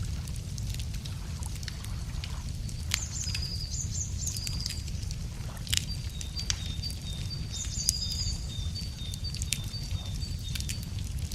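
Wood fire crackling, with scattered sharp pops over a low steady rumble, while small songbirds sing high: quick trills about three seconds in, then a run of short repeated notes from about six to ten seconds.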